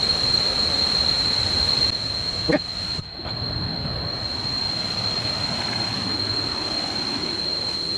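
Jungle insects, cicadas, droning one steady high-pitched tone without a break.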